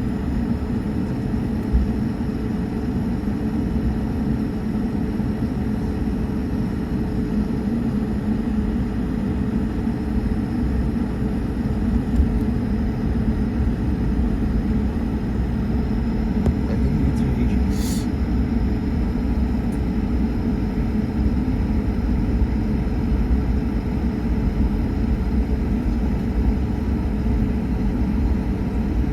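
Cabin noise inside an Airbus A220 taxiing: the steady low rumble of its Pratt & Whitney PW1500G geared turbofan engines and airframe, with a steady hum riding on top. A brief hiss about 18 seconds in.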